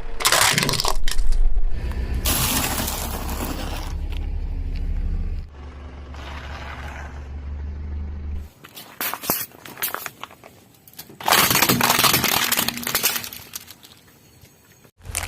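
A car's tyre rolling over brittle objects and crushing them, in several loud bursts of crunching and breaking with scattered crackles, over the low running of the car's engine.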